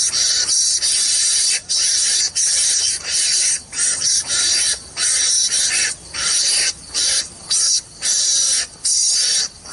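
Loud, high-pitched insect buzzing, typical of a cicada chorus, that keeps breaking off for a moment and starting again, about once a second.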